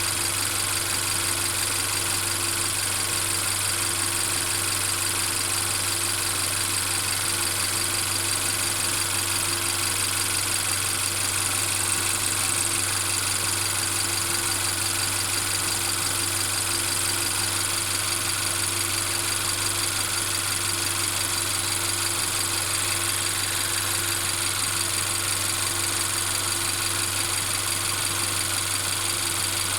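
Mercedes-Benz CLA 250's 2.0-litre turbocharged four-cylinder engine running steadily at constant speed, with the continuous rattling noise that the owner is trying to trace.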